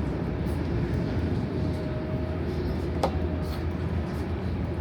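Regional train running along the track: a steady low rumble, with a single sharp click about three seconds in.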